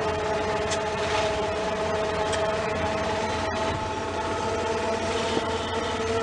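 A vehicle running steadily, an even rumble with a constant droning hum.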